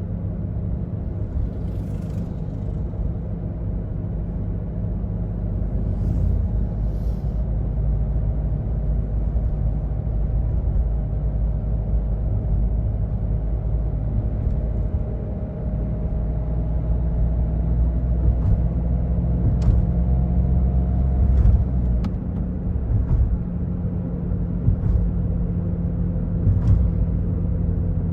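2005 Toyota Yaris diesel engine running under way with steady tyre and road rumble. Past the middle the engine note rises slowly for several seconds as the car pulls. A few short sharp clicks sound over it.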